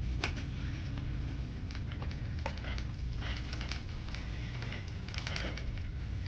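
Indoor store background: a steady low hum with scattered light clicks, taps and rustles.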